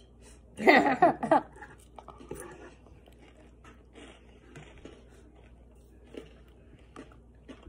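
A person chewing a mouthful of salad, heard as faint, irregular mouth clicks and smacks. A short voice sound about a second in is the loudest moment.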